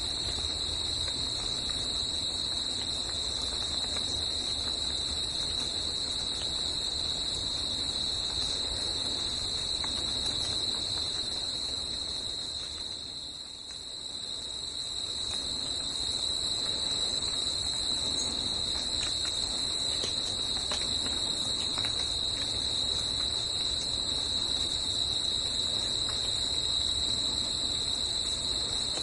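A chorus of insects, likely crickets, holding a continuous high-pitched trill. It fades briefly about halfway through and then comes back.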